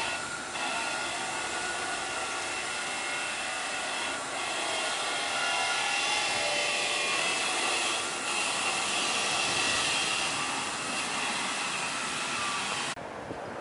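Jet airliner engines running: a steady rush of noise with high whining tones, a little louder in the middle, cutting off abruptly about a second before the end.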